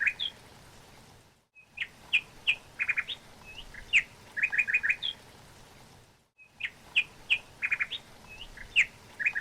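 Songbirds chirping in short, quick trills and single high notes. The same run of chirps repeats about every five seconds, with a brief drop to silence between repeats, like a looped recording.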